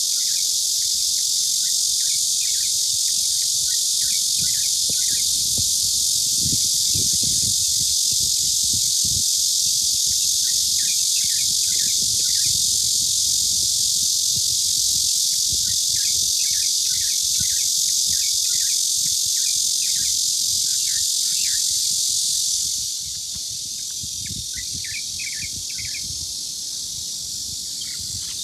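Cicadas droning in a steady high-pitched chorus, with small birds chirping in short bursts underneath. The cicada drone drops away markedly a little over three-quarters of the way through, leaving the bird chirps clearer.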